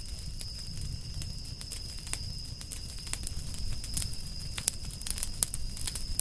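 Campfire of burning firewood crackling, with many sharp irregular pops over a low rumble of flame. A thin steady high whine sits behind it.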